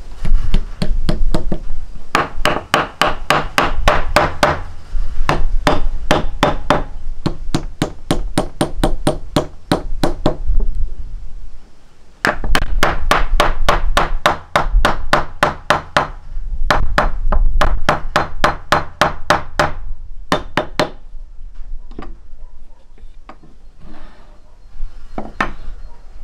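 Rapid repeated hammer blows, about four a second, in long runs broken by short pauses and thinning to a few scattered strikes near the end.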